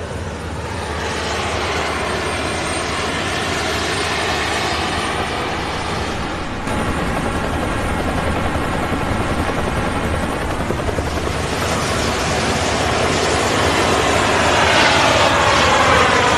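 Loud, steady aircraft noise that jumps up suddenly about six and a half seconds in and grows louder over the last few seconds.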